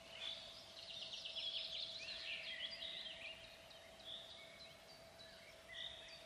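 Birds chirping and singing, several short high calls and trills overlapping, busiest about a second or two in, over a faint steady hum.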